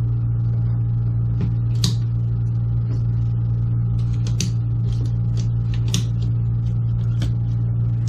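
Steady low mechanical hum with light, irregular clicks and taps, like hands handling pipe fittings and tools.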